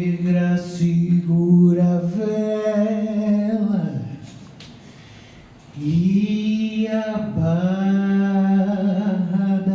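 Unaccompanied singing in long held notes, with a pause of a little under two seconds about four seconds in.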